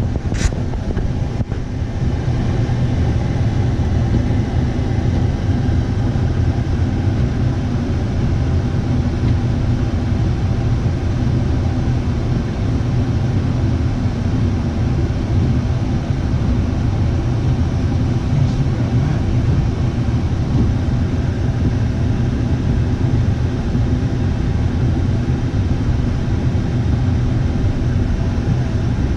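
Motor vehicle running steadily, a continuous low engine and road rumble.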